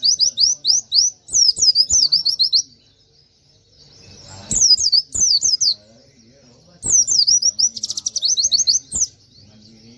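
White-eye (pleci) singing in three quick bursts of rapid, sharp, falling high notes in the 'tembakan' style, with a fast buzzing rattle woven into the last burst.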